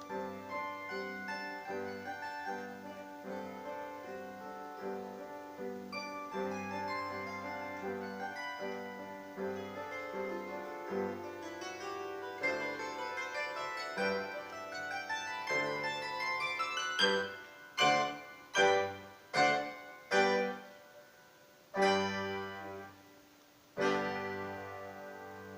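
Bandura played solo: a steady run of plucked notes, then a series of loud separate chords near the end that ring out and fade as the piece closes.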